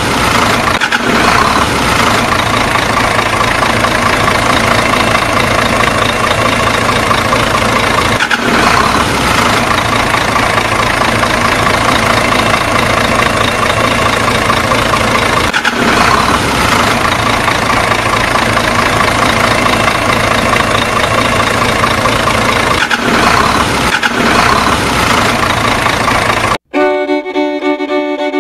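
Steady tractor engine sound that dips briefly about every seven seconds, as a loop does. Near the end it cuts off suddenly and fiddle and banjo music starts.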